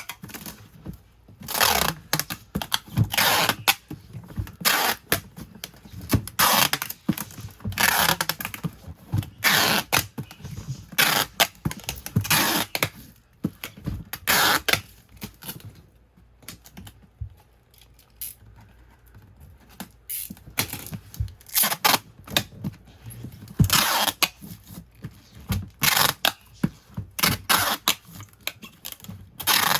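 Packaging handled by hand: irregular rustling, crinkling and scraping of paper and cardboard, with a quieter stretch about halfway through.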